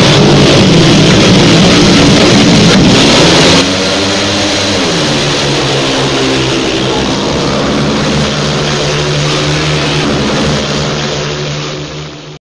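Speedway motorcycle engines revving, loud and harsh, with the pitch rising and falling about four seconds in. The sound drops somewhat in level about three and a half seconds in and cuts off suddenly near the end.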